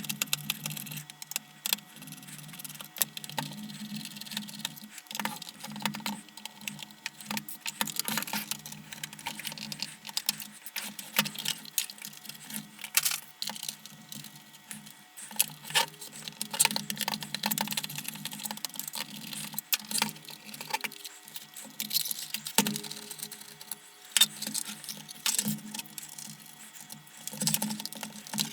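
Screws being taken out and the plastic lantern housing being handled and pulled apart: a long string of small clicks, taps and rattles of plastic and metal parts.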